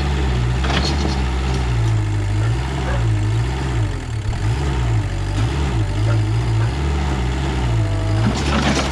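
Mini backhoe engine running steadily while digging soil, its pitch rising and falling as the work loads it.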